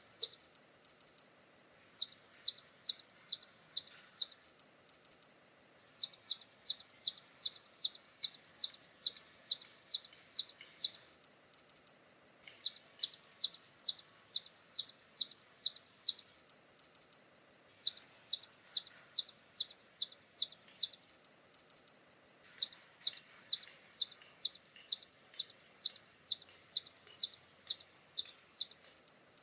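Hummingbird calling: a series of short, high chip notes, about two or three a second, in runs of a few seconds broken by short pauses.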